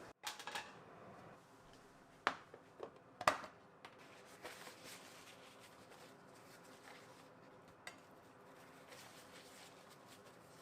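A few light clinks and knocks of kitchen dishes or utensils, sharpest about two and three seconds in, over a faint steady room hum.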